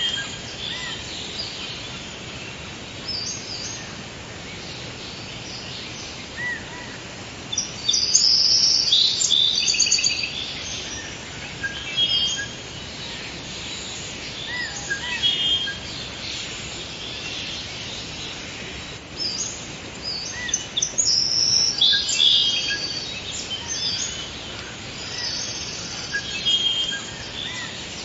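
Forest ambience: several birds chirping and calling over a steady faint hiss, with bursts of busier, louder chirping about a third of the way in and again after the middle.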